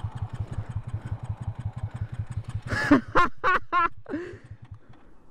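A Honda Grom's single-cylinder engine idling with even pulses, about ten a second, that fade away about three seconds in. As the engine fades, a short, high, wavering call sounds three or four times.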